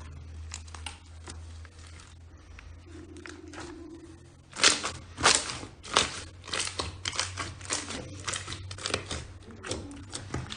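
Slime being squeezed and pressed by hand, giving sharp wet pops and crackles, sparse at first and then a fast irregular run of loud pops from about halfway through.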